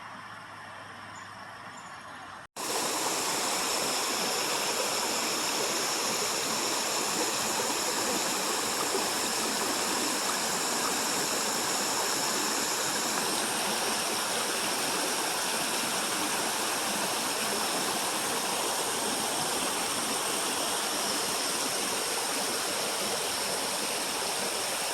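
Heavy rain falling: a loud, steady rushing hiss that starts abruptly about two seconds in, after a quieter background.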